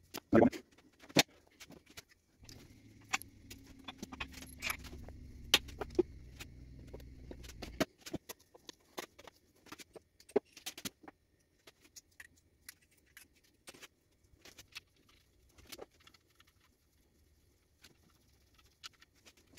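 Scattered light metallic clinks and taps of hand tools and engine parts being handled during engine block assembly. A low steady hum runs underneath for about five seconds from a couple of seconds in.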